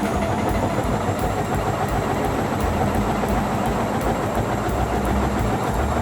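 Washing machine running with its drum spinning: a steady mechanical rumble and churning, with faint irregular clicks.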